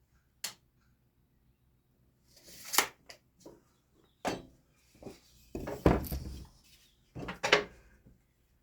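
Scattered knocks and scrapes from handling wooden fence pickets in a workshop, with a heavier knock about six seconds in.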